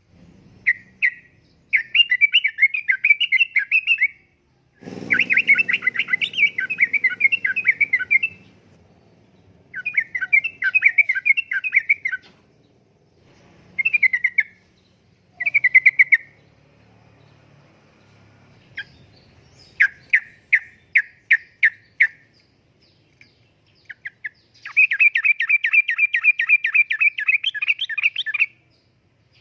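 Sooty-headed bulbul (trucukan) singing in repeated bursts of fast, chattering notes, each phrase lasting one to four seconds with short pauses between. Near the end comes a longer run of evenly paced notes. A low rumble sits under the song for a few seconds about five seconds in.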